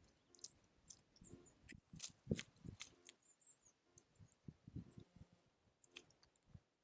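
Faint, irregular clicks and taps of small animals feeding at a feeder, with a short high bird chirp about halfway through.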